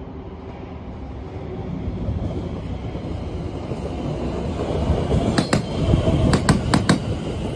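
London Overground electric train approaching and passing close by: a rumble that builds steadily, then from about five seconds in a run of sharp clicks, some in quick pairs, as its wheels cross rail joints.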